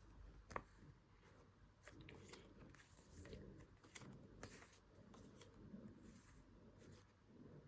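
Faint rustling and light clicks of paper and stationery being handled, with one sharp click about half a second in.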